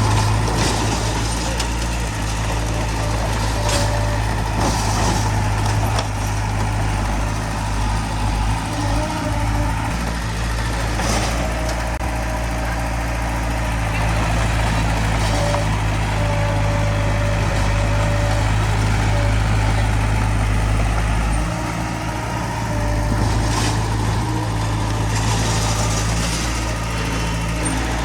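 Heavy diesel earthmoving machinery running steadily at a low drone, with several short whining tones and intermittent clatter over it.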